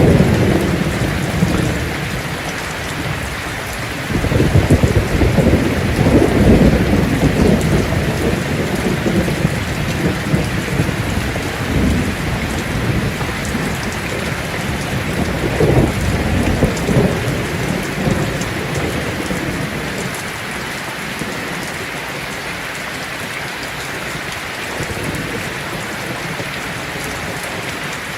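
Heavy rain drumming steadily on a tin roof, with thunder rolling in low rumbles several times in the first two-thirds. After that the rain alone carries on.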